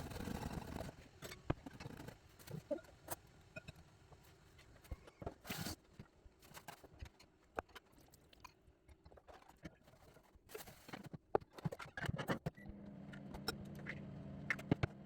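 Scattered clicks, taps and rustling from objects being handled and moved about. About two-thirds of the way through, a steady low hum comes in and keeps running.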